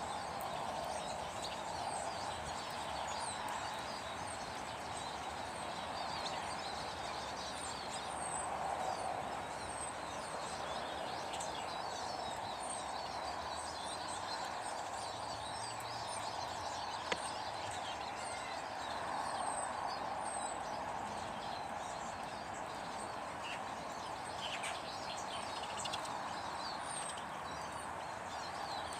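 Small birds chirping and twittering in many short, high calls over a steady rushing background noise, with one sharp click a little past halfway.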